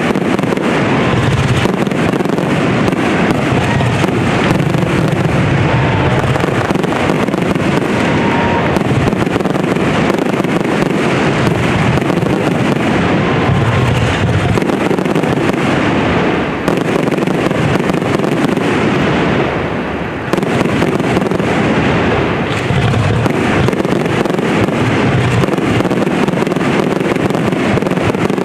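Aerial fireworks going off in a dense, continuous barrage of bursts and crackling, with only brief lulls a little over halfway through.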